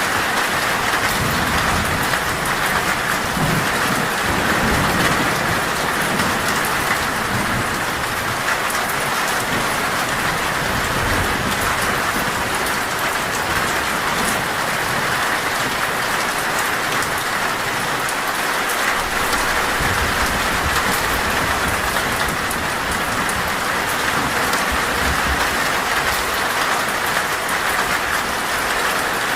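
Heavy rain drumming steadily on a sheet-metal roof, a dense even hiss, with low thunder rumbling underneath at times.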